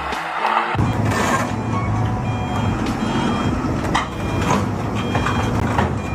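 A heavy vehicle's engine running with a low rumble while a reversing alarm beeps repeatedly over it; background music cuts off just under a second in.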